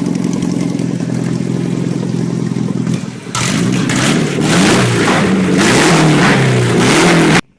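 Acura Integra four-cylinder engine just started and running at a steady idle, then about three seconds in it is revved, its pitch rising and falling several times, before cutting off suddenly near the end.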